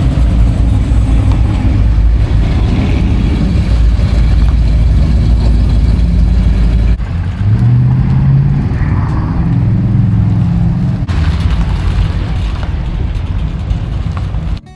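Truck engine running loud with a deep low rumble. A bit over halfway through the sound changes and the engine revs up, rising in pitch, then eases off near the end.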